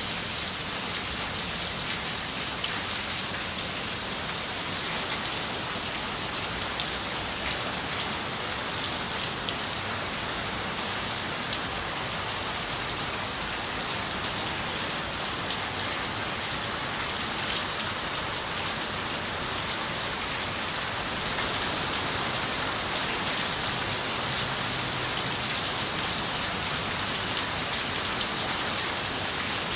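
Steady rain on a window: an even hiss with scattered sharp raindrop taps, growing slightly louder about two-thirds of the way through.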